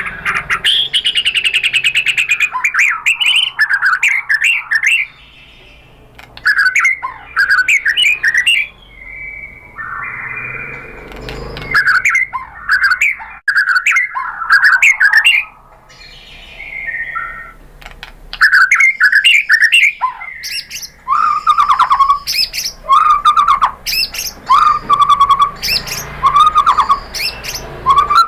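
White-rumped shama singing a loud, varied song in bursts: rapid clicking trills and sweeping whistles with short pauses between phrases. Toward the end comes a run of repeated lower whistled notes.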